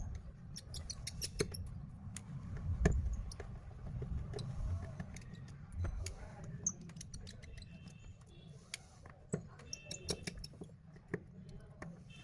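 Small precision screwdriver working the tiny screws out of a Redmi Note 10s's inner cover: irregular light clicks and ticks of the bit and loose screws, over a low steady hum.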